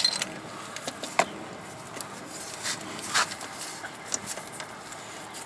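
Scattered small clicks and scrapes of a new oil filter being screwed into place by hand, with a few sharper clicks near the start, about a second in and about three seconds in.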